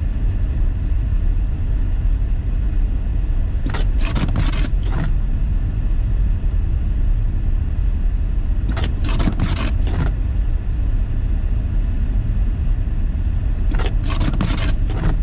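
Car driving on a snow-covered road, heard inside the cabin: a steady low rumble of engine and tyres, with a short burst of rapid ticking or scraping about every five seconds.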